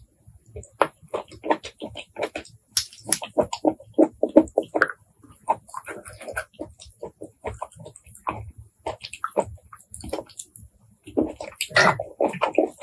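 Close-miked wet chewing and lip-smacking while eating blood cockle meat: a quick, irregular run of soft clicks and squelches, with short pauses and a louder stretch near the end.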